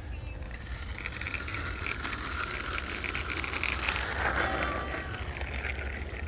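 Bicycle coasting: the rear hub's freewheel clicks in a rapid, steady run of ticks over a low rumble of wind on the microphone.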